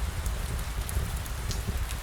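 Steady rain falling, with scattered light drop ticks over a low rumble.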